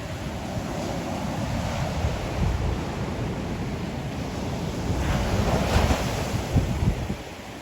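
Ocean waves breaking on the shore, a wave swelling and washing in loudest about five to six seconds in, with wind rumbling on the microphone.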